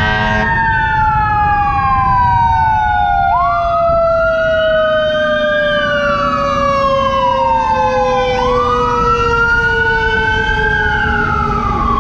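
Emergency vehicle sirens: one wailing, rising and falling in pitch about every five seconds, over a second steady tone that slowly falls in pitch throughout, with a low rumble underneath.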